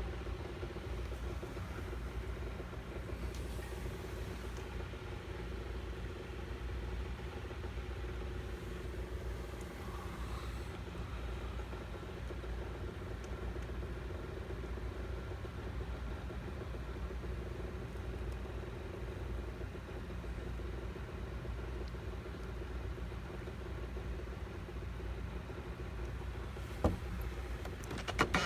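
Steady low mechanical hum with a constant tone over a deep rumble, unchanging throughout; a sharp click near the end.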